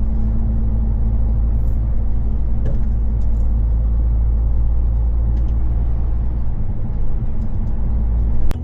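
Heavy truck cruising on the motorway: a steady low engine drone mixed with road and tyre rumble, with no change in speed.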